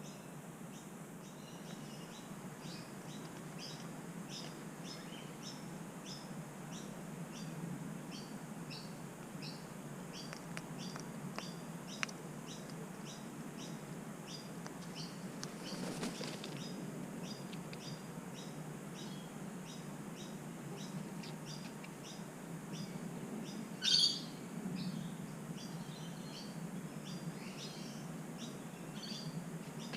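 Birds outdoors: a steady run of short, high chirps repeating several times a second, with a flutter of wings about halfway through and a brief loud squawk near the end.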